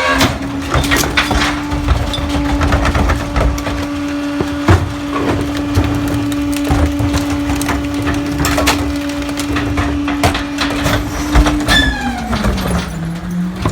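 Pak-Mor rear-loader garbage truck packing heavy trash: the engine holds a steady raised note driving the hydraulic packer while the load crunches, cracks and splinters under the blade. Near the end the engine note drops as the packing cycle eases off.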